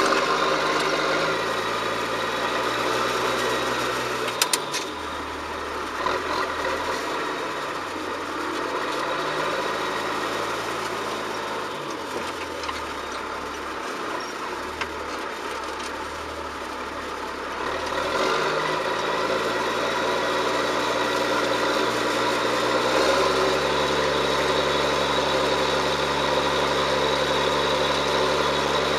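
John Deere 7710's six-cylinder diesel engine running under load while ploughing. Its speed shifts several times, picks up about 18 s in, then holds steady. A couple of sharp clicks come about four seconds in.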